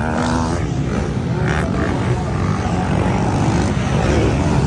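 Motocross dirt bike engines running hard on the track, a loud, continuous drone whose pitch rises and falls as the riders work the throttle.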